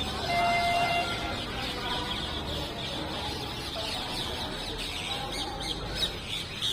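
Parrots calling: many short, high chirps and squawks, with a held, pitched call about half a second to a second in.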